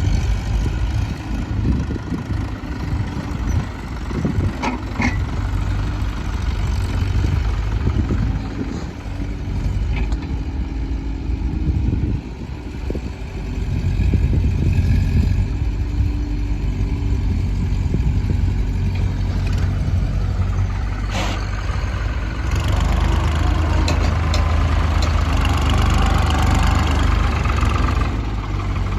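Diesel engines of tractors and a JCB backhoe loader running steadily, with a few sharp knocks. One engine grows louder and fuller about three-quarters of the way through.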